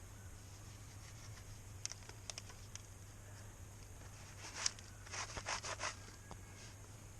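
A few light clicks, then several short strokes of rubbing and scraping, as a rag wipes spilled oil off the motorcycle after the drain plug is refitted.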